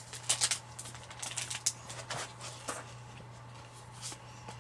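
Close-up crunching of someone chewing a chocolate-coated crispy rice waffle: a run of irregular sharp crackles, over a faint steady low hum.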